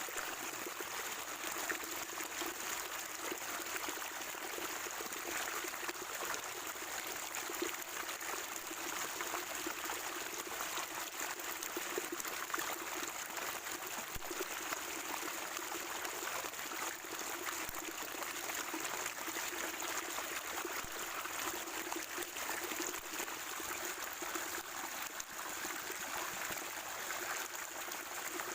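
Spring water trickling and gurgling steadily over rocks, a continuous even splashing.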